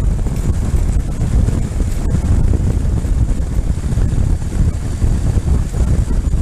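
Wind buffeting the microphone of a moving motorcycle: a loud, steady, rumbling rush of air with road and engine noise underneath.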